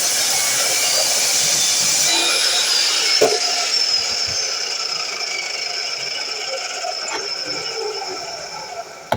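A power miter saw's motor running at full speed with a high whine. About three seconds in there is a click, then the whine falls in pitch and the noise dies away slowly as the blade spins down.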